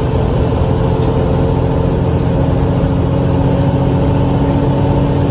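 Heavy tow truck's engine running at a steady speed, heard from inside the cab: a loud, even drone with several held tones, and a single click about a second in.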